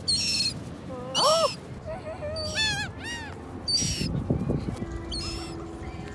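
Seagulls calling: about five short, high cries a second or so apart, some rising and falling in pitch.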